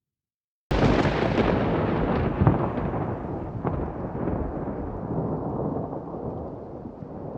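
Thunder: a sudden loud clap about a second in, followed by a long rolling rumble with a couple of sharper cracks, slowly fading.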